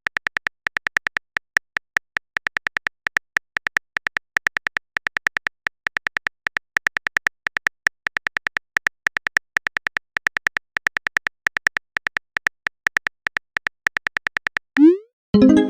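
Rapid clicks of a simulated phone keyboard as text messages are typed out, coming in quick runs with short pauses between them. Near the end a short rising 'bloop' sound plays as a message is sent.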